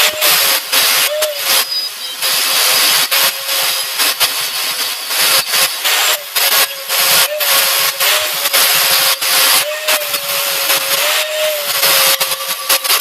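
Power grinder grinding paint off the steel air tank, its motor whining steadily with a harsh grinding noise, the pitch dipping briefly several times as it bites under load.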